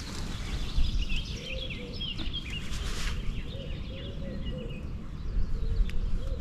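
Several birds chirping and calling, over a steady low rumble, with a few light clicks.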